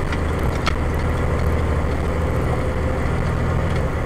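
Fire engine's motor running steadily as the truck drives, a low drone with road noise, heard from inside the cab.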